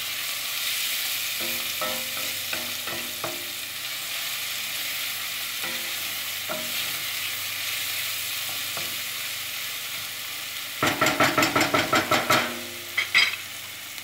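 Chopped onion and garlic sizzling in oil in a pan, stirred with a wooden spoon. About eleven seconds in comes a quick run of about ten loud knocks of the spoon against the pan, then two more single knocks.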